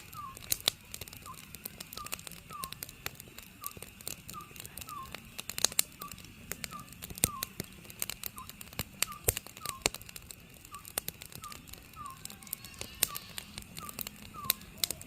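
Wood fire crackling and popping with irregular sharp snaps, the loudest sounds, while an Oriental scops owl calls steadily, short hooting notes repeated about twice a second.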